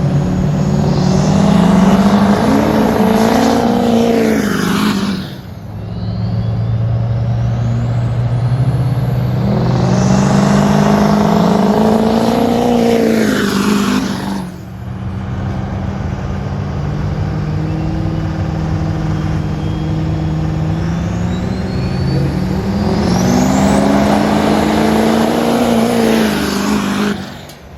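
Pickup truck engines accelerating hard in three separate drag runs, one after another. In each, the engine's pitch rises and then falls away before cutting off. A thin rising whistle sits over the middle run.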